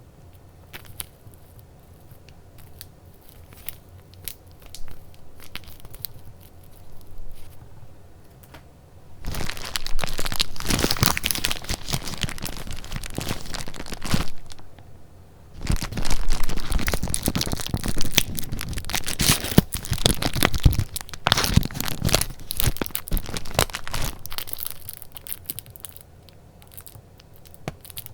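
Paper being handled close to the microphone, rustling and crinkling. It starts as light taps and small rustles, then turns into long stretches of loud rustling with a short break in the middle, and thins out again near the end.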